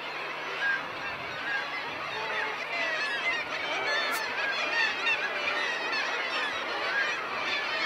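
A seabird colony: a dense chorus of many birds calling at once, short overlapping calls running on without a break.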